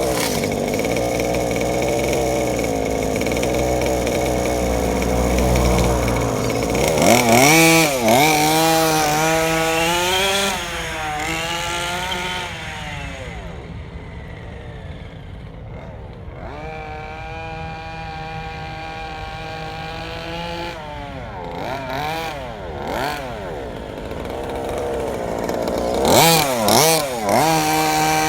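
32cc Rovan two-stroke engine with a DDM Side Dominator pipe on a 1/5-scale Baja 5B RC car, run gently during break-in. It buzzes continuously, its pitch rising and falling as the throttle is worked, with quick sharp swings about a quarter of the way in and again near the end.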